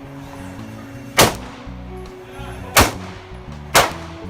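Three gunshot sound effects, the first about a second in and the last two a second apart, over background music with a low stepped tune.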